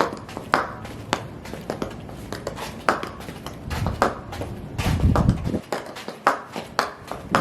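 High heels stomping, sharp heel clicks at an uneven pace of roughly one or two a second, with a low rumble from about four to five and a half seconds in.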